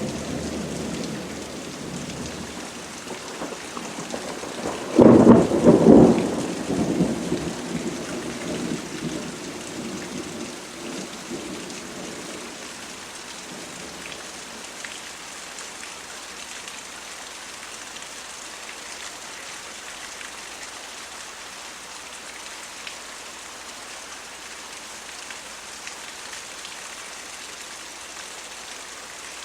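Thunderstorm with steady rain. A rumble is dying away at the start, and a sharp clap of thunder comes about five seconds in and rolls off over several seconds. After that only the even hiss of rain remains.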